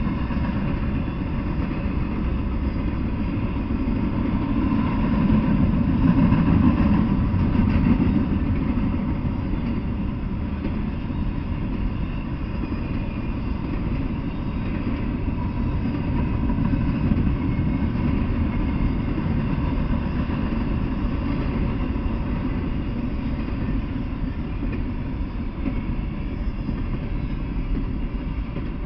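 Double-stack intermodal container train rolling past: a steady rumble of wheels on rail that swells a few seconds in, then holds.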